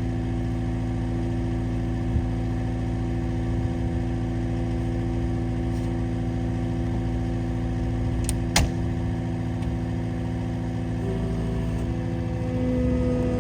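Skid steer engine running steadily at idle, with two sharp clicks about eight and a half seconds in. Near the end the engine note rises and gets a little louder.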